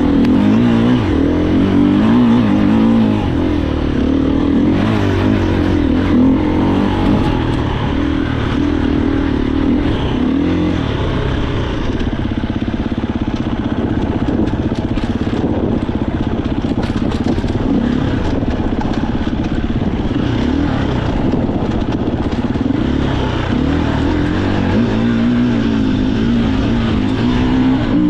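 Husqvarna FE 350 enduro bike's single-cylinder four-stroke engine under way off-road, its revs rising and falling again and again as the throttle is worked.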